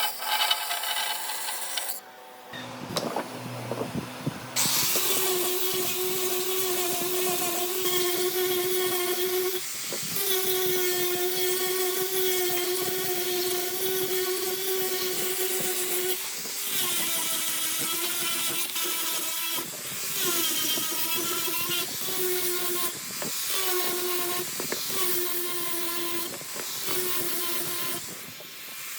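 A high-speed handheld rotary carving tool whines as it cuts into wood. Its pitch sags and recovers under load, with short breaks every few seconds, and it starts up again about four seconds in after a brief lull.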